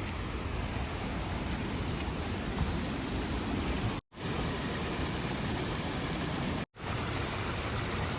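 Steady rush of flowing river water, with a low rumble underneath. The sound cuts out completely for a fraction of a second twice, about four seconds in and again near six and a half seconds.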